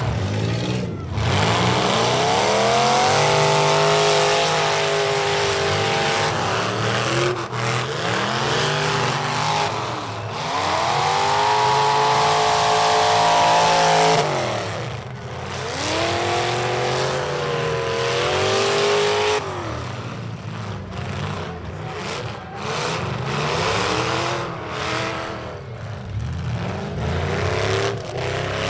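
Demolition derby vehicles' engines revving hard in repeated surges, each climbing in pitch, holding and dropping away over a few seconds, with several engines overlapping.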